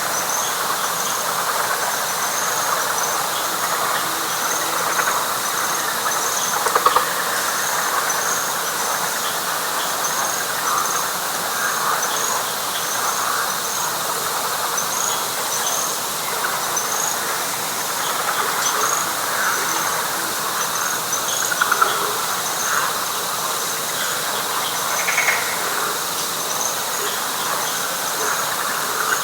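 Night chorus of frogs in a wet pine flatwoods: a dense, steady mass of calls, with a few louder calls standing out about 7, 22 and 25 seconds in. Over it an insect chirps high and short, about once or twice a second.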